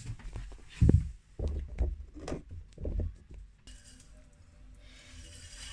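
Clay and tools being handled and set down: a run of dull thuds and knocks with a few light clinks, then a faint steady hiss with a low hum from about four seconds in.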